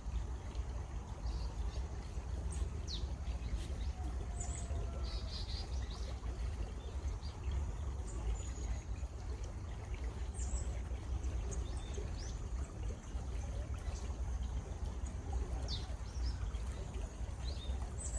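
Running water from a stream, a steady rushing flow, with small birds chirping briefly and often over it.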